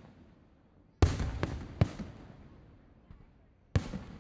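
Aerial fireworks shells bursting, with a sharp bang about a second in and two more close behind it, then another near the end. Each bang trails off in a rolling rumble.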